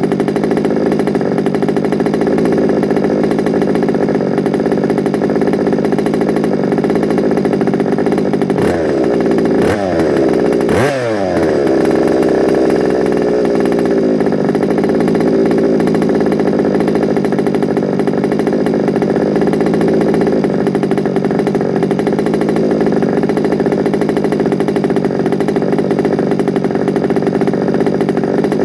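Small two-stroke petrol engine of a large-scale FG Sportsline RC car running steadily on its first start-up, with two brief revs around the middle.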